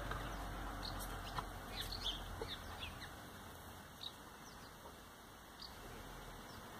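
Faint, short bird chirps, mostly in the first few seconds, over a low steady outdoor rumble.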